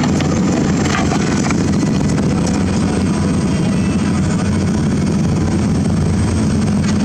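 Excavator's diesel engine running steadily under load, a constant low hum, with a few faint clicks in the first second and a half.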